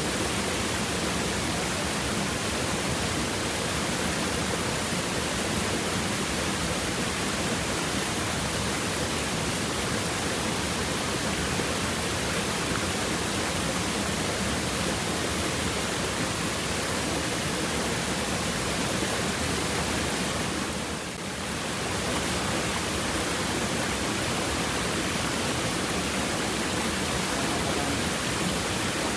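Stream water babbling over rocks: a steady, even rush with a brief dip in level about two-thirds of the way through.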